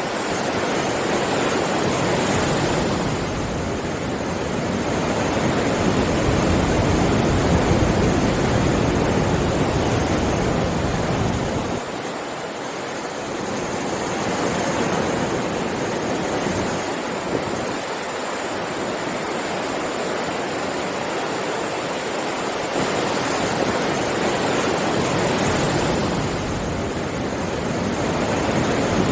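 Sea waves washing onto a shore: a continuous rush of surf that swells and eases every several seconds.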